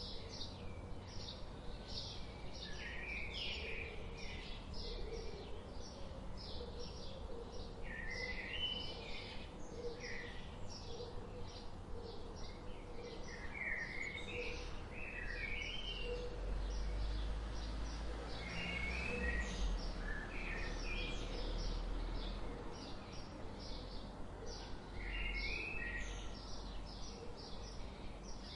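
Songbirds chirping and twittering outdoors, with many short calls and brief warbled phrases throughout. A low rumble swells under them in the middle.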